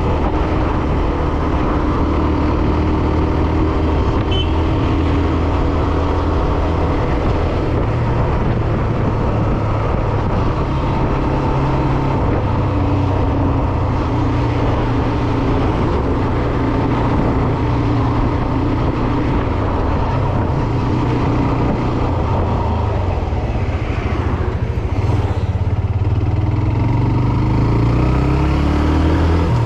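Hero Xtreme 125R motorcycle's single-cylinder engine running steadily on the move, its note rising near the end as it accelerates.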